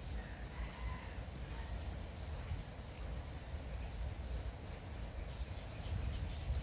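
Light drizzle as a steady, even hiss with a low rumble, with faint bird calls and chirps over it.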